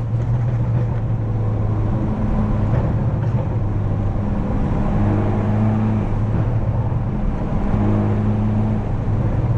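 Straight-piped exhaust of a tuned BMW F30 328i's turbocharged 2.0-litre four-cylinder droning while driving, the engine speed holding fairly even with small rises and dips.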